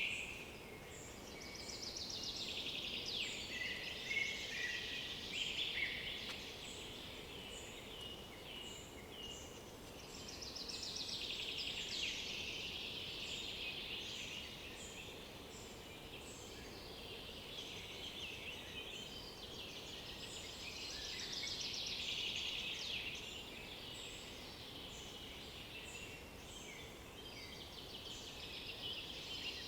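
Songbirds singing: one bird repeats loud, fast-trilled song phrases a few seconds long about every ten seconds, over scattered short high chirps from other birds.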